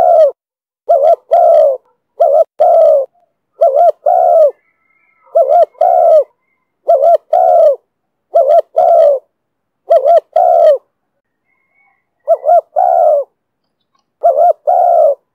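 Spotted dove cooing in the rhythmic pattern Vietnamese keepers call 'thổ thúc bổi': loud, low two-part coos repeated about every second and a half, with one longer pause after about eleven seconds.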